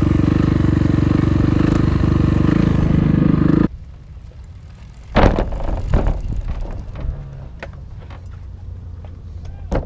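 Kawasaki KX450F dirt bike's four-stroke single-cylinder engine running steadily at speed. It cuts off abruptly a little over a third of the way in, leaving a much quieter stretch with a couple of sharp knocks.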